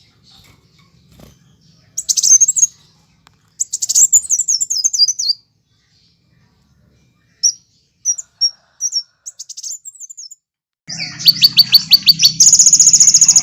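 Sunbirds singing: short bursts of very high, rapid chirps and sweeping trills with brief silences between them. Near the end a louder, unbroken run of fast repeated notes begins over a low hum.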